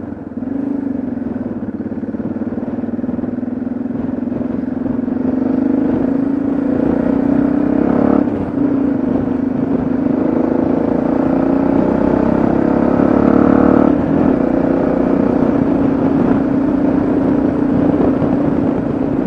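Yamaha XT660Z Ténéré's single-cylinder engine running on the road, pulling steadily and getting louder. There is a brief dip about eight seconds in, and the engine eases off again near fourteen seconds.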